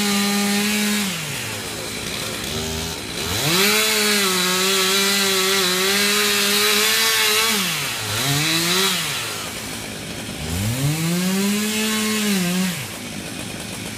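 Two-stroke chainsaw revving to full throttle and dropping off again, several times over. It is held wide open for a few seconds at a time with a short blip in between, as it cuts wood.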